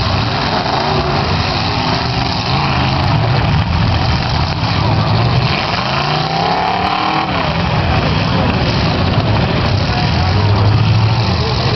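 Demolition derby cars' engines running together in a continuous loud din, with one engine revving up and back down about six seconds in.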